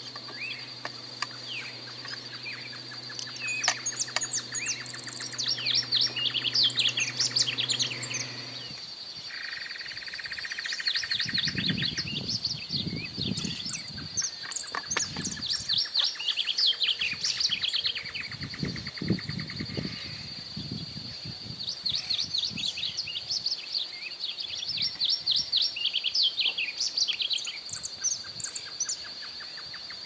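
Male masked yellowthroat singing: bouts of quick, high warbled phrases repeated every few seconds, with short pauses between bouts.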